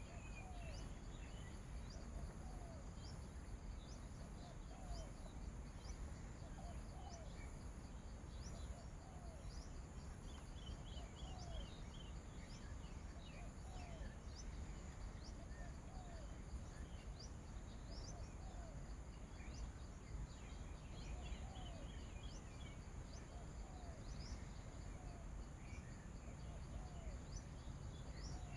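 Assorted small birds chirping and calling, one with a short repeated call about once a second. Insects buzz steadily behind them, over a low wind rumble.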